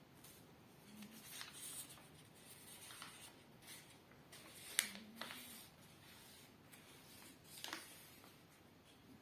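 A sheet of paper being handled and folded, with soft rustles and crisp creasing sounds coming in short spells. The loudest is a sharp crease or snap of the paper about five seconds in.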